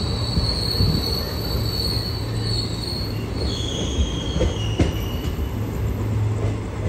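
Train running, heard from on board: a steady low rumble under a thin, high wheel squeal. The squeal holds one pitch, then about halfway through changes to a lower and a higher tone, with a couple of knocks.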